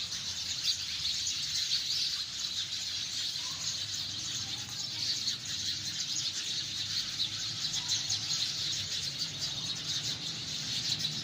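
Sparrows chirping, many at once in a dense, continuous chorus of short high chirps.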